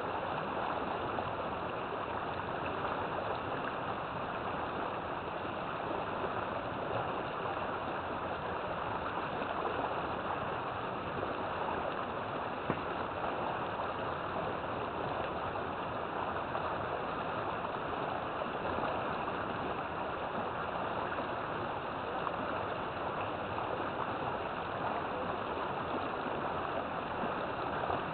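River water flowing steadily, a continuous even rushing with a gurgling texture.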